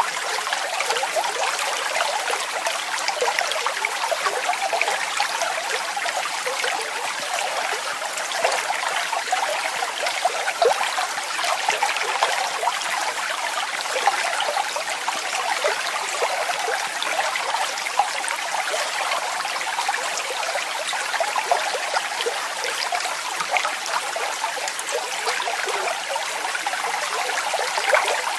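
Waterfall water falling and splashing steadily, a dense patter of small splashes with no deep rumble.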